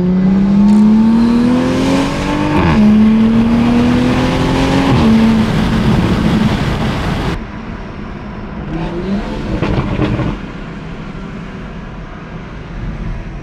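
Toyota Supra A91's turbocharged inline-six accelerating hard, heard from inside the cabin. The engine note climbs and drops at two upshifts, about two and a half and five seconds in. About seven seconds in the throttle lifts and it settles to a quieter cruise, with a brief rise near ten seconds.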